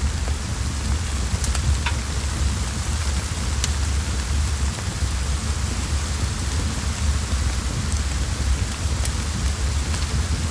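Steady rain hiss over a low, constant rumble, with a few sharp crackling pops from a wood fire in a fireplace.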